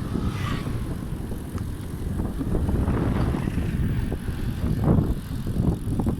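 Wind rumbling on the microphone of a moving road bicycle, with tyre and road noise; a fluctuating low rush, with a few faint ticks.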